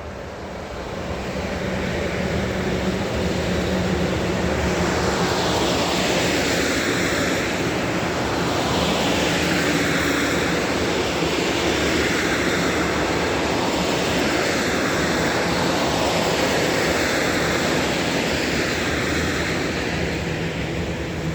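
Freight train of tank wagons rolling past close by: a loud, steady clatter and rumble of wheels on rail. It swells and eases in a regular rhythm every two to three seconds as each wagon goes by.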